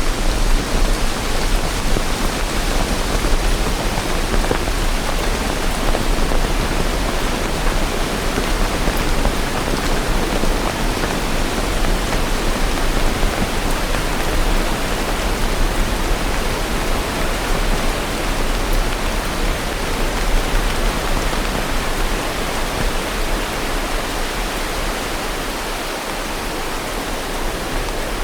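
Steady rain falling: a dense, even hiss with no breaks and no thunder.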